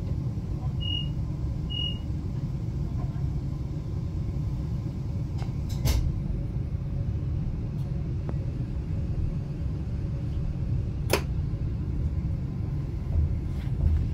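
Steady low rumble and hum inside a passenger train carriage, with two short high beeps about a second and two seconds in, and a couple of sharp clicks.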